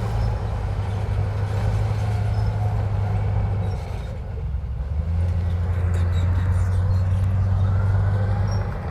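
Heavy diesel engine of an earthmoving machine running with a steady low hum. It eases off briefly about four seconds in and picks up again about a second later.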